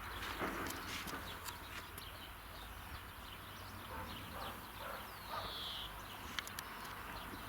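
Birds chirping and calling in short quick notes, with a clearer descending call about five and a half seconds in, over a steady low background hum.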